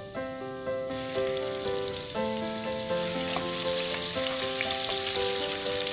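Chopped garlic, then red onion, frying in hot oil in a stainless steel pot. The sizzle sets in about a second in and grows much louder from about three seconds, with the onion in the pan. Background music with stepped notes plays throughout.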